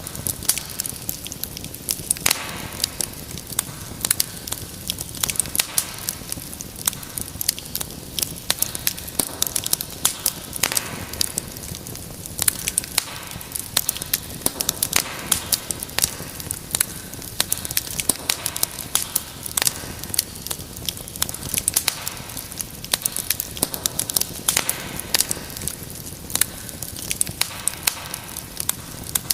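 Wood fire crackling steadily, with many irregular sharp pops and snaps over a low, steady rush of flame.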